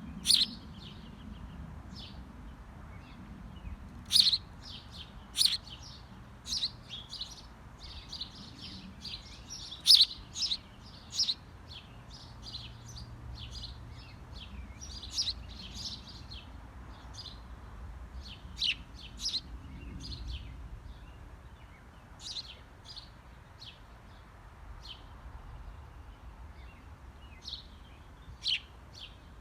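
Small birds chirping in many short, sharp, high-pitched calls at an irregular pace, a few of them loud.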